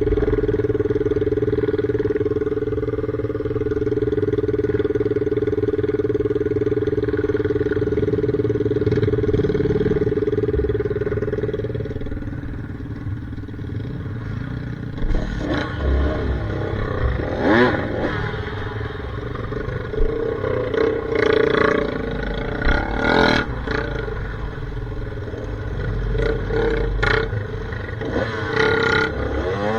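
Dirt bike engine running at a steady pitch, then dropping lower about twelve seconds in and revving in uneven short blips, with knocks and clatter.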